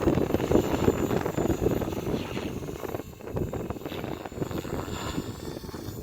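Electric 3D RC helicopter's rotor whirring in flight, mixed with gusty wind buffeting the microphone. It grows quieter about halfway through.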